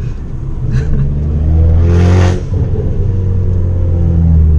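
Abarth 500's turbocharged 1.4 engine running through a decatted, straight-piped Bombardone exhaust, a steady loud drone. About two seconds in there is a brief hiss, then a short dip in level before the drone returns.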